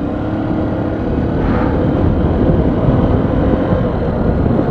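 Vehicle travelling at highway speed: steady road and wind noise with a low engine hum underneath.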